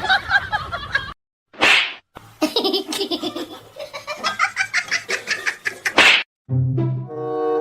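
Laughter in rapid repeated bursts for several seconds, set off by a quick whoosh just before it and another just after. Near the end a steady held tone follows.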